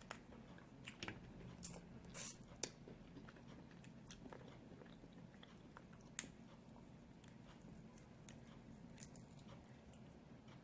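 Snow crab legs being cracked and eaten: faint, scattered clicks and crunches of shell with quiet chewing, the sharpest snaps about two and a half and six seconds in.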